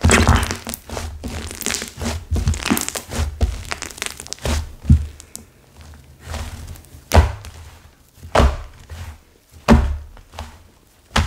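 Stiff slime mixed with hardened clay being squeezed, folded and pressed by hand: irregular dull thunks about once a second, with crackling in the first few seconds.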